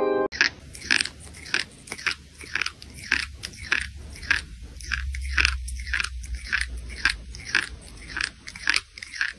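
Crisp snack food being crunched and chewed, sharp crunches about three a second, over a faint low hum.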